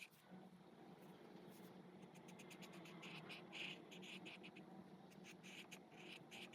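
Faint squeak and scratch of alcohol marker tips on coloring-book paper in quick back-and-forth coloring strokes, coming in short runs, mostly in the second half.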